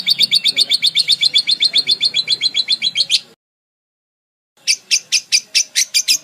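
Parakeet chirping in a fast run of sharp, high notes, about ten a second, that cuts off suddenly just over three seconds in. After a second of silence, a second series of chirps starts, slower, about six a second.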